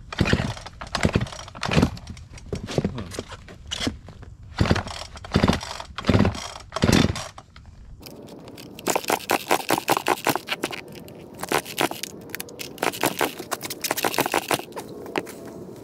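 Husqvarna 55 Rancher two-stroke chainsaw being pull-started: repeated starter-cord pulls, about one every 0.7 s, without the engine catching. About halfway through the sound changes suddenly to a run of rapid crackling and scraping clicks.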